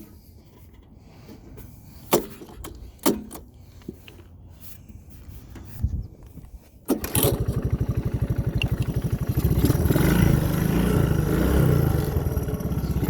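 Single-cylinder four-stroke engine of a Honda ATC185S three-wheeler, still cold and idling rough. It is faint, with a few sharp knocks, for about seven seconds, then suddenly comes up loud with a rapid, even firing beat.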